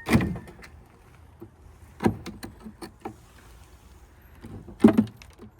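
Wooden knocks and clunks of beehive frames being handled in a wooden hive box: three loud knocks, at the start, about two seconds in and near the end, with lighter clicks between them.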